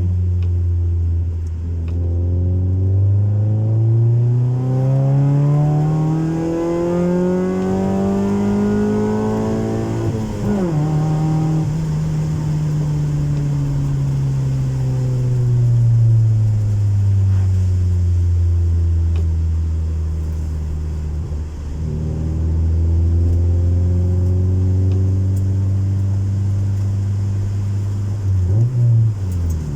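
Honda Civic 1.4iS four-cylinder engine through a custom-made exhaust, pulling hard with its pitch rising for about eight seconds. It then drops sharply at a gear change and settles lower and steady, with a brief blip of revs near the end.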